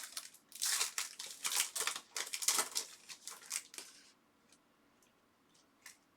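Trading cards being handled and slid against one another, a quick run of papery swishes and scrapes that stops about four seconds in, followed by a few faint clicks.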